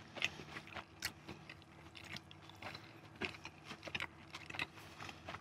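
A person chewing momos close to the microphone: faint, irregular soft clicks and smacks of chewing.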